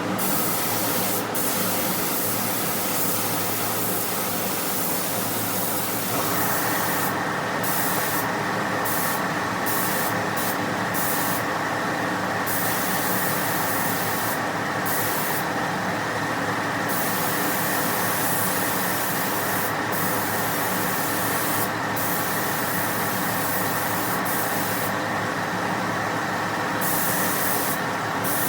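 Paint spray gun hissing as clearcoat is sprayed. The hiss stops briefly again and again between passes, over a steady hum with several tones in it.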